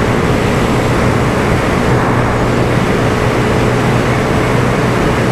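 Motorcycle riding at steady speed: a constant engine hum under a heavy, even rush of wind and road noise on the rider's microphone.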